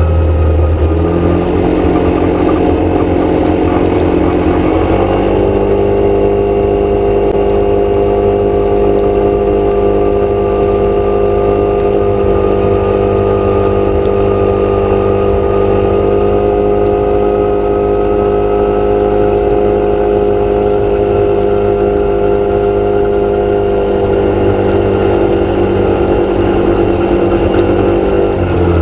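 A motor engine running at a steady speed. Its pitch steps up about a second in and again about five seconds in, holds there, then drops near the end.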